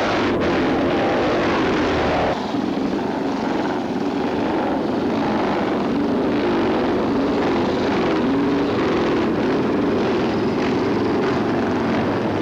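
Racing motorcycle engines running hard at high revs, a steady loud engine note, with an abrupt shift in the sound about two seconds in.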